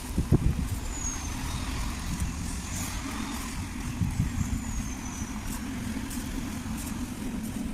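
Steady low rumble of a vehicle on the move, with a few short thumps, one just after the start and another about four seconds in.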